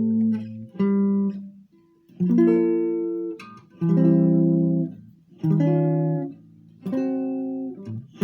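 Solo guitar playing a slow ballad in chords: a chord struck about every one and a half seconds and left to ring out.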